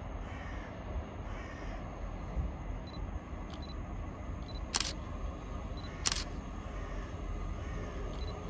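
Steady low rumble as a ScotRail Class 158 diesel multiple unit approaches from far off, with two sharp clicks about a second and a half apart near the middle.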